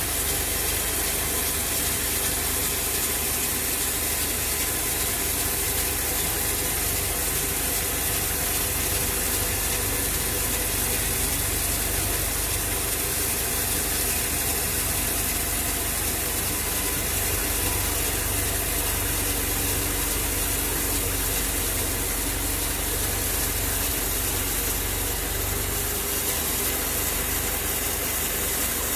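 Sawmill machinery running steadily, a constant mechanical noise with a low drone underneath and no break.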